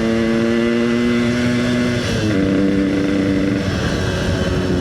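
Yamaha RX-King single-cylinder two-stroke engine under way, heard from on the bike, through an EnzyProject aftermarket exhaust. The engine note climbs slowly, drops sharply about two seconds in, then dips again a little later, over steady wind and road noise.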